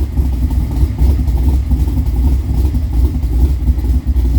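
Johnspeed Cobra's engine idling with a steady low rumble just after a cold start, the car having sat unstarted for a couple of days.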